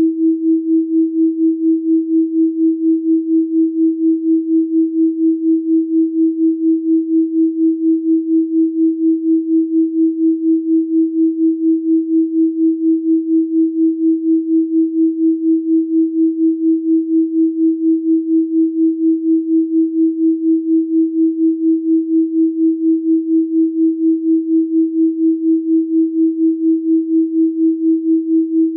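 Electronic pure sine tone at 324 Hz, held steady, pulsing evenly in loudness about three times a second.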